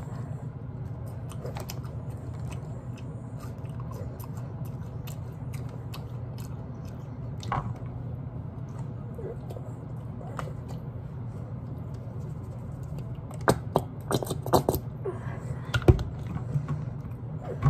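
A person chewing food close to the microphone, with light clicks and taps from handling clear plastic takeout containers. A cluster of sharper clicks and knocks comes in the last few seconds, over a steady low hum.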